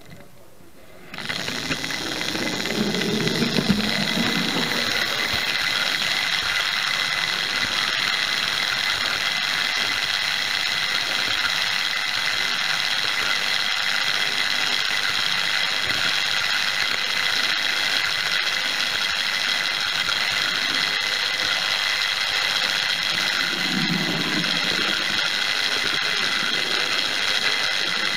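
Hornby Dublo 0-6-2 tank engine chassis running on 3-rail track with the camera riding on it: the electric motor and gears start about a second in and run on as a steady whine with mechanical clatter. A lower rumble swells twice, once early and once near the end.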